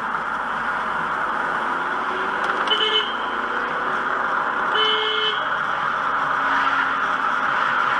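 A car horn honks twice, a short beep and then a somewhat longer one, over the steady noise of a car driving.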